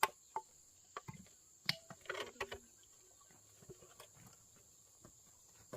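A few scattered knocks and clatters of wood or bamboo being handled during barn building, clustered in the first two and a half seconds, then it goes quiet.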